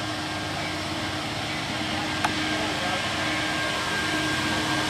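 Distant train approaching: a steady low rumble and hiss that slowly grows louder, with one sharp click a little over two seconds in.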